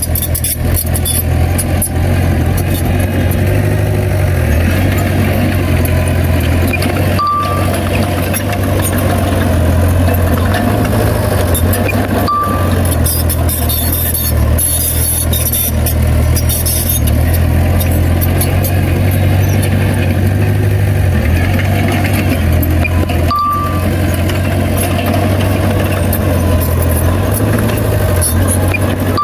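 Heavy diesel engine of a bulldozer running steadily under work, its low drone rising and falling slightly in pitch a few times.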